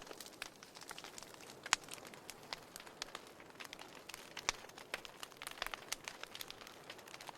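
Wood fire crackling in a fireplace: irregular snaps and pops over a soft hiss, with a sharper pop just under two seconds in and another around four and a half seconds.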